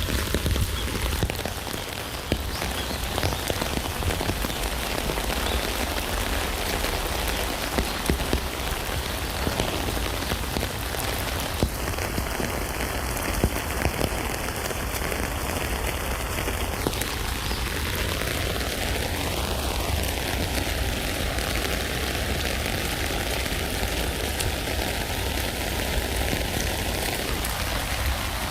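Steady rain falling on a tent, a dense even hiss of rain with many separate drop hits on the fabric.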